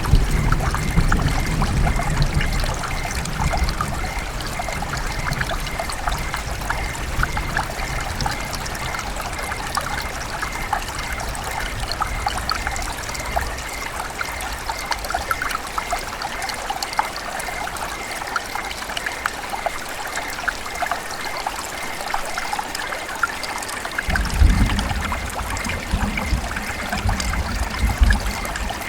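River water running and trickling steadily over rocks, with a fine bubbling texture. A low rumble sits under it for the first dozen seconds and comes back about 24 seconds in.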